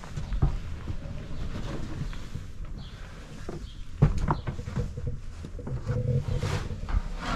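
Heavy machinery running with a steady low rumble, broken by several knocks and scrapes; the loudest is a sharp knock about four seconds in.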